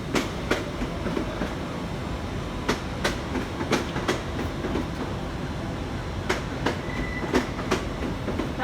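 A train rolling past, its wheels clicking over rail joints in pairs (about 0.4 s apart, several pairs) over a steady low rumble.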